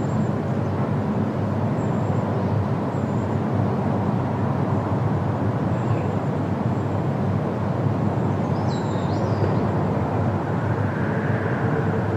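Steady rushing wind through forest leaves, with a faint bird chirp about nine seconds in.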